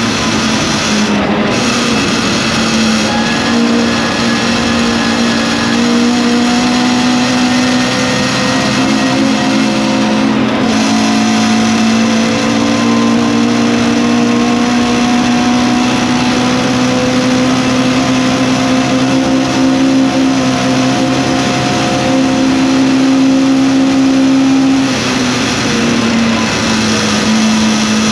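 Lotus Cortina racing saloon's Lotus-Ford twin-cam four-cylinder engine at full throttle, heard from inside the cockpit: one strong, steady engine note. The note dips briefly about a second in, about ten seconds in, and near the end.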